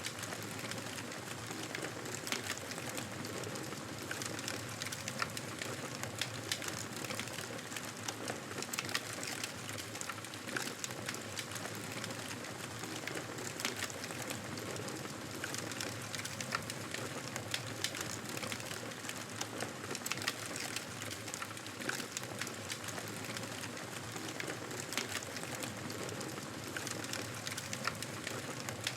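Campfire burning: a steady hiss with frequent, irregular crackles and pops.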